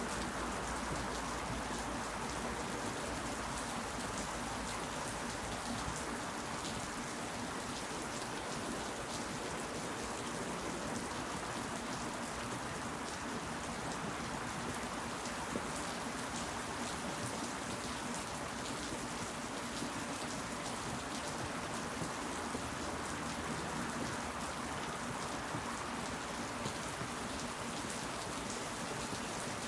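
Steady rain falling on surfaces, a constant hiss full of individual drop hits. A low rumble underneath fades out about six seconds in.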